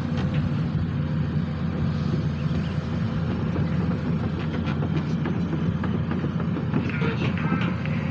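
SANY SY215C hydraulic excavator's diesel engine running steadily at working speed, with a few light knocks scattered through.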